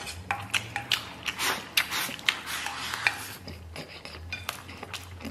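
Close-up chewing of soft, fatty braised pork belly and rice, heard as a string of irregular small mouth clicks and smacks.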